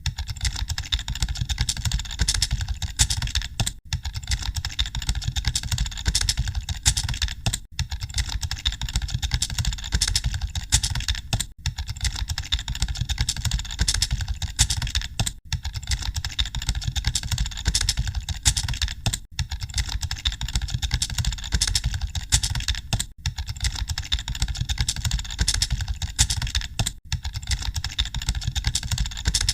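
Many computer keyboards being typed on at once: a dense, continuous clatter of keystrokes over a low steady rumble, like a hall full of typists. The clatter briefly drops out about every four seconds.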